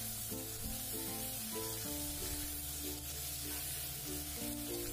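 Tebalan shellfish sizzling in hot oil and chilli paste in a wok as a metal spatula stirs them, with background music of a stepping melody over it throughout.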